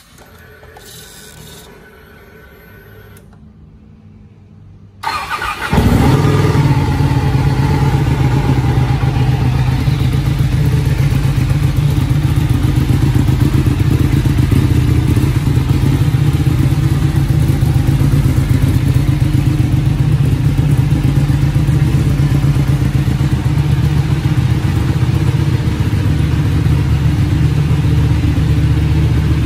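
Ducati 1299 Panigale S's 1285 cc Superquadro V-twin started about five seconds in with a brief crank, then idling steadily.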